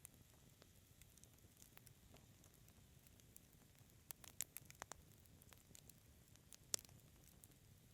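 Wood fire crackling softly: a low bed of flame noise with scattered sharp pops, a quick flurry of them about halfway through and one louder pop near the end.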